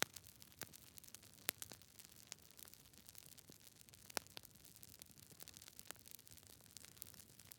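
Campfire of burning wood crackling quietly: scattered sharp pops and snaps at irregular intervals over a faint hiss, with two louder pops about a second and a half in and about four seconds in.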